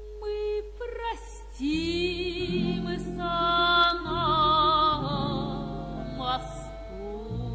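Music: a voice singing long, wavering held notes with vibrato over a steady instrumental accompaniment.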